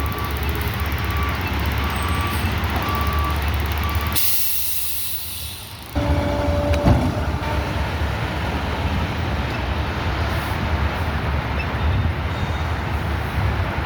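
Peterbilt 520 garbage truck running, its reverse alarm beeping steadily for the first three seconds or so. About four seconds in, the air brakes let out a long hiss lasting nearly two seconds. Then the truck's running noise comes back with a sharp clunk about seven seconds in.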